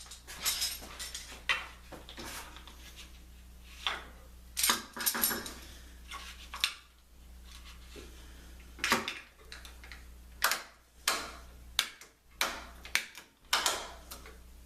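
A clamp being set and tightened on a wooden workpiece: a series of irregular metallic clicks, clanks and knocks.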